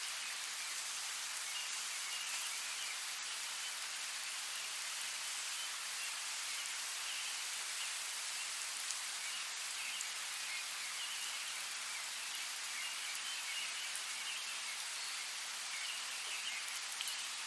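Steady rain falling, an even hiss of drops with small patters.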